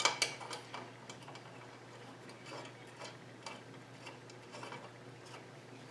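Faint, irregular metallic clicks and ticks of a screw being turned by hand into a freshly tapped hole in a steel bar, the loudest click right at the start.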